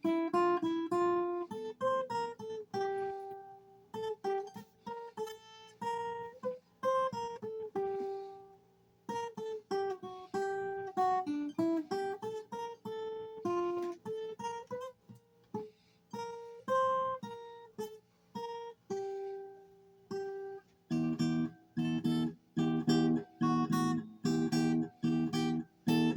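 Acoustic guitar played solo: a single-note melody picked note by note, with some notes sliding in pitch. Near the end it changes to strummed chords at about two strokes a second.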